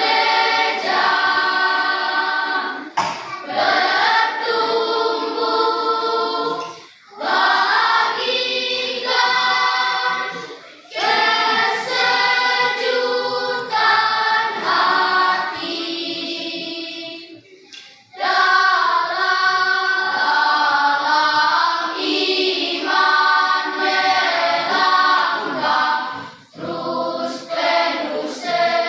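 Choir singing in three-part harmony, in phrases broken by short pauses for breath.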